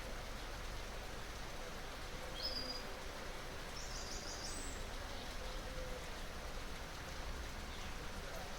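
Steady rush of running water flowing by, with a few short, high bird chirps about two and a half and four seconds in.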